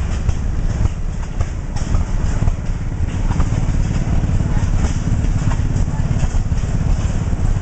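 Old Cummins oil engine running steadily with a rapid, even low firing beat.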